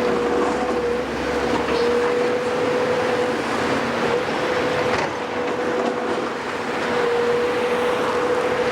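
Heavy diesel construction machinery at work, running steadily under a constant high whine, with a single sharp knock about five seconds in.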